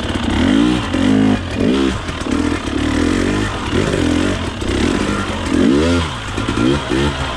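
Two-stroke dirt bike engine revved in quick throttle blips, its pitch rising and falling over and over, with some mechanical clatter.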